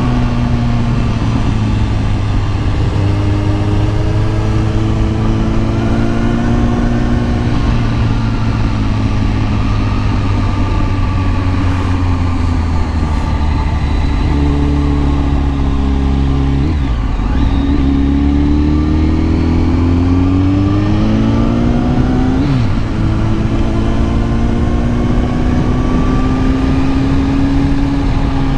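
Kawasaki ZX10R inline-four engine running under way, mostly at steady revs. Past the middle the revs climb, then dip sharply once, as at a gear change, and settle again.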